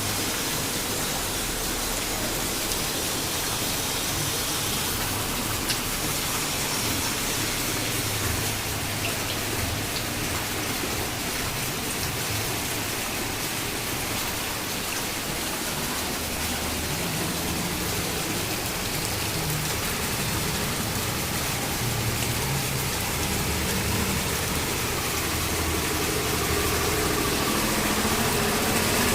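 Heavy rain falling steadily, a dense even hiss with faint drop ticks, growing a little louder near the end.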